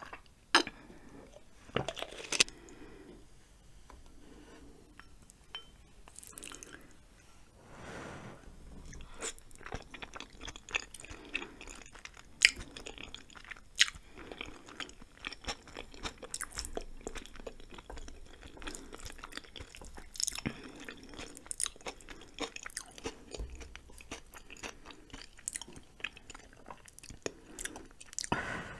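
Close-miked chewing of ramen noodles and rice cakes, with wet mouth smacks and sticky clicks coming irregularly throughout. A longer slurp-like sound comes about eight seconds in.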